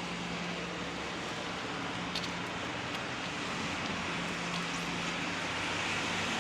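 Steady hiss of rain on a wet street, with a low engine hum that fades out in the middle and comes back, and a couple of faint ticks.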